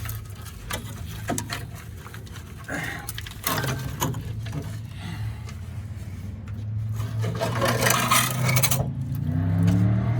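Scraping, rubbing and clinking of tools against metal fittings, with a longer rasping scrape near the end. A steady low hum runs underneath.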